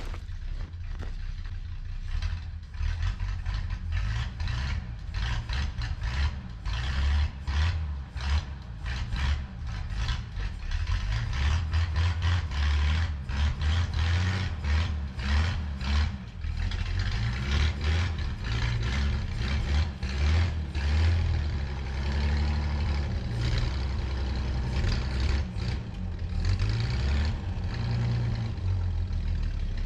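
Rat rod's engine running after being started on ether from a winter's sitting, running unevenly with its level rising and falling.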